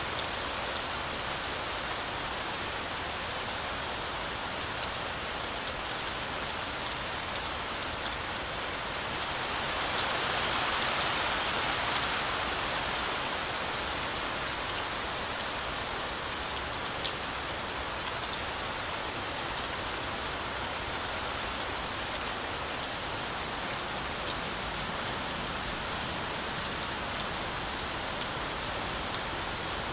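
Heavy rain falling steadily on forest trees, a continuous hiss with scattered drop ticks. It swells louder for a few seconds about ten seconds in, then settles back.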